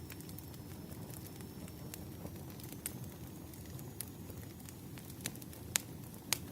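Wood fire crackling: a steady low rumble of burning logs with irregular sharp pops, the loudest near the end.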